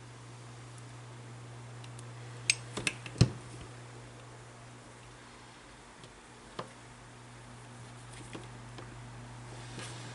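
A few sharp clicks and knocks of hand-handled tools or small parts, four in quick succession about two and a half seconds in and another about six and a half seconds in, over a steady low hum.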